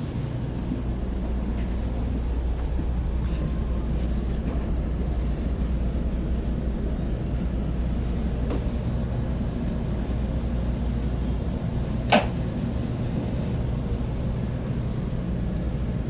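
Shinkansen running noise heard inside the passenger car: a steady low rumble with faint high-pitched whines that come and go, and one sharp click about twelve seconds in.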